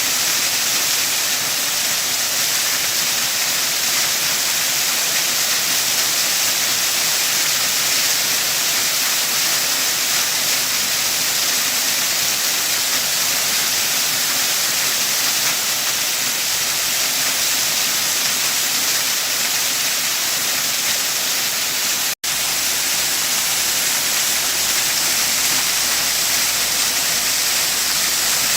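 Waterfall rushing in a steady, even hiss, with a split-second dropout about three quarters of the way through.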